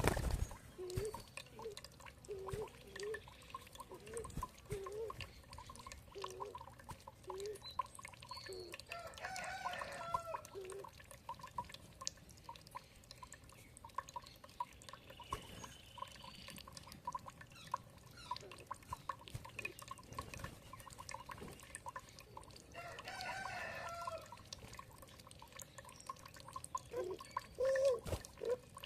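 Birds calling over water dripping, with short low calls repeating in the first several seconds and a longer, fuller call twice, about a third of the way in and again past the middle.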